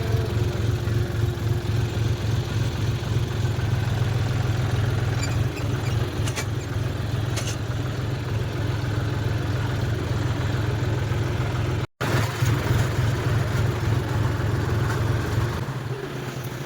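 Tractor engine running steadily with a low drone. The sound cuts out for a moment about twelve seconds in, then carries on the same.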